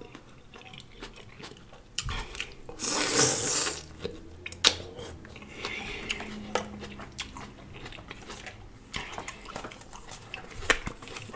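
Close-miked chewing of a juicy tomato slice: wet smacking and mouth clicks, with a louder noisy burst about three seconds in. A plastic fork picks and taps in a plastic salad container.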